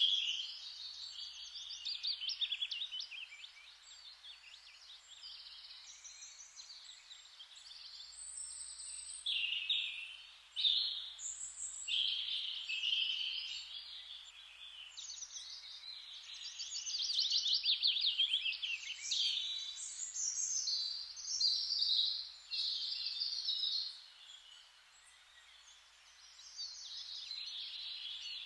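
Songbirds singing in a forest, a steady chorus of overlapping chirps and trills from several birds, with a brief quieter lull a little after the middle.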